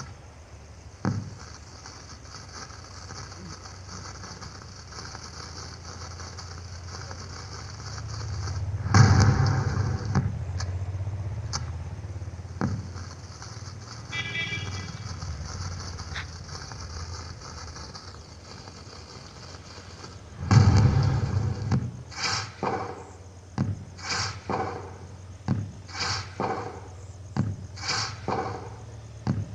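Electronic LED pixel cracker playing firecracker sound effects through its speaker: a loud bang with a lingering rumble about nine seconds in and another about twenty seconds in, then a quick series of cracks, roughly one or two a second, near the end, over a steady hiss.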